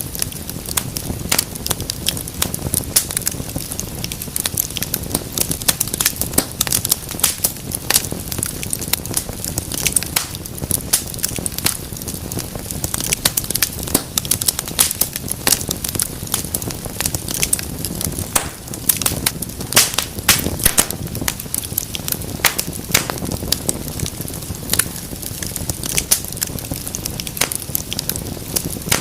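Wood fire crackling and popping, with dense irregular snaps over a steady low rumble of flame.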